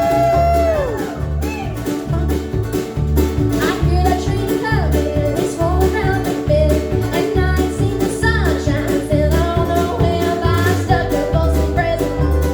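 Live bluegrass band playing an up-tempo tune: a steady bass beat of about two notes a second under plucked strings, with a melody line sliding between notes above.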